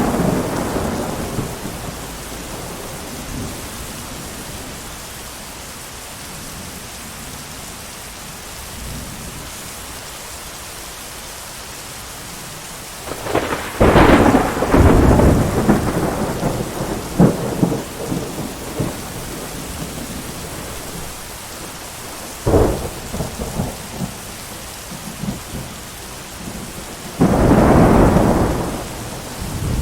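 Steady heavy rain with thunder. A rumble fades at the start, a loud clap a little before halfway rolls on for a few seconds, a sharp crack comes about two-thirds of the way through, and another loud peal comes near the end.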